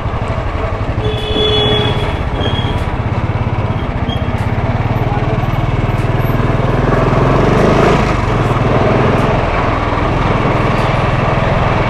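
Royal Enfield Classic 350's single-cylinder engine running steadily as the motorcycle is ridden, its note rising a little past halfway through as it speeds up. A few short horn-like beeps sound about a second in.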